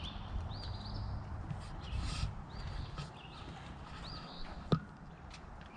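A songbird singing a short phrase over and over: a quick rising-and-falling chirp trailing into a brief buzz, repeated several times. Underneath runs a low rumble, with a sharp click near the end.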